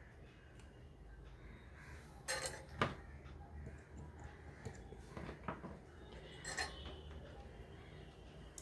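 A few light clinks and taps of small hard tools and parts being handled on a workbench: short sharp knocks, two of them with a brief metallic ring, spread over several seconds.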